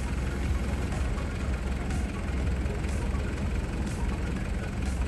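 Large diesel engine idling steadily with a deep, even low rumble.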